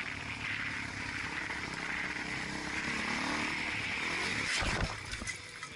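A vehicle engine running steadily with road noise. A brief sharp clatter comes about four and a half seconds in.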